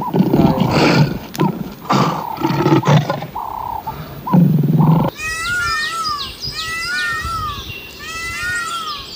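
Pig grunting and squealing in low, rough calls. About five seconds in, this gives way to a run of high, falling chirps repeated roughly once a second.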